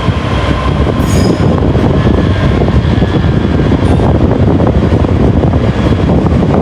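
A train moving through the station, a loud steady rumble, with a brief high wheel squeal about a second in.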